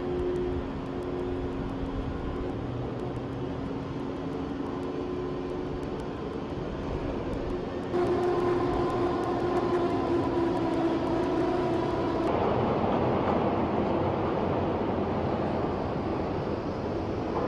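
Drilling machinery on a drill ship's rig floor running with a steady hum of several held tones under mechanical noise. It steps up in loudness about eight seconds in and turns rougher and noisier a few seconds later.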